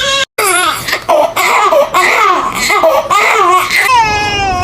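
A baby laughing in short bursts, then starting to cry near the end.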